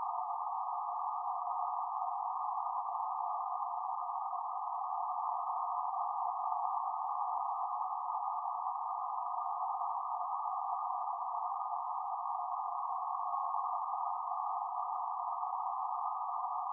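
A steady, unchanging electronic drone of filtered hiss around a middle pitch, like a held sound-design tone, with no other sound.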